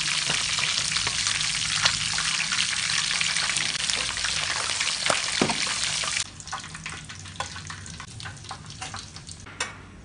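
Cubes of chicken blood frying in hot oil in a steel wok, sizzling loudly while a wooden spatula turns them. About six seconds in the sizzle drops away suddenly, leaving scattered crackles and ticks.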